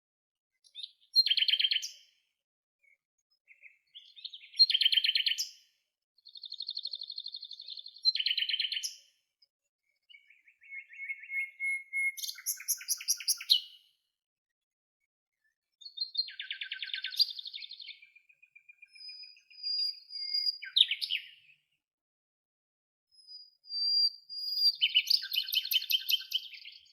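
A songbird singing: rapid trilled phrases, each a second or two long, with short pauses between them.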